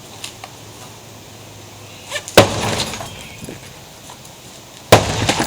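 Two sledgehammer blows smashing a big-screen TV, about two and a half seconds apart. Each is a loud crash with breaking glass and debris clattering for about half a second.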